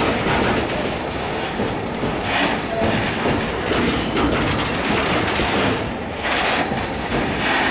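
Freight train of Uacns silo tank wagons rolling past close by: a steady rumble of steel wheels on rail, broken by clicks as the wheels cross rail joints.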